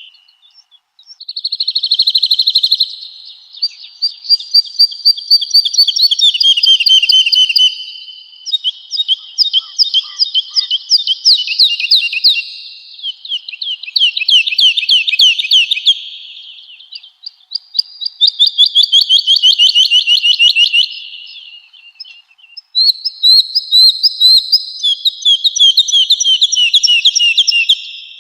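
Woodlark singing: a series of phrases, each a fast run of repeated high notes, many sliding down in pitch, with short pauses between phrases.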